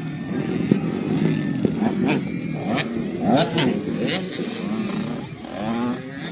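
Several 85cc two-stroke motocross bikes racing together, their engines revving up and down and overlapping, with several sharp clicks among them.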